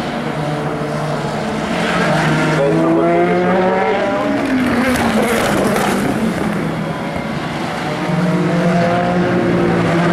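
Endurance race cars passing one after another, their engine notes climbing as they accelerate and sweeping down as they go by.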